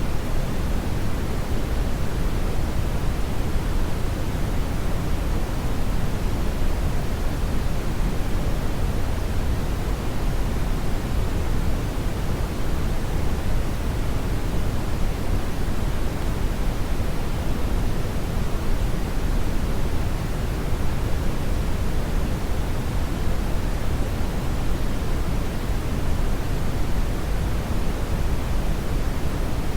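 Steady, loud synthetic brown noise: an even, deep rushing hiss with most of its energy in the low end, unchanging throughout.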